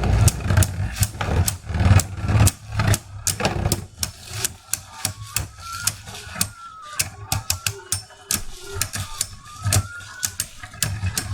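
Beyblade battle: a 3D-printed Mystic Ultraus and a Tempest Dragon spinning and clashing in a plastic stadium, a rapid run of sharp clicks and knocks over a steady whir. The hits come thick and loud at first and thin out after about four seconds.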